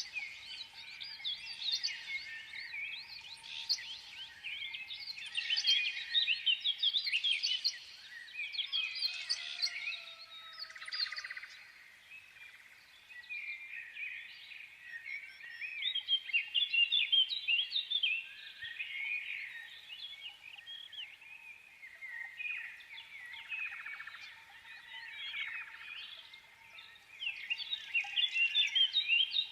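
Many small birds chirping and twittering together in a dense, continuous chorus that swells and ebbs every few seconds.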